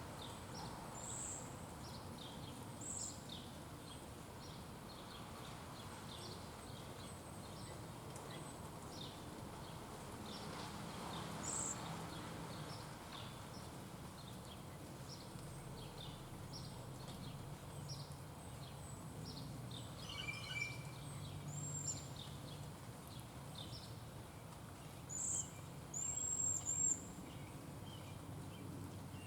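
Small birds chirping over steady outdoor background noise: many short, high chirps throughout, with a few louder high calls near the end.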